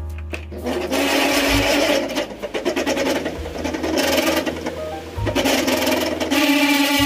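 Table fan running with a loud, fast mechanical rattle over background music. The fan's shaft and bush are worn out.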